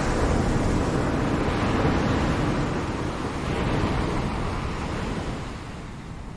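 Ocean waves breaking and washing in surf: a wave swells up at the start, holds through the first few seconds with a second smaller surge, then recedes near the end.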